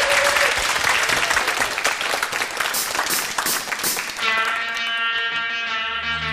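Studio audience applauding and cheering. About four seconds in, a pop song's intro starts under it with a held guitar chord, and a deep bass comes in near the end.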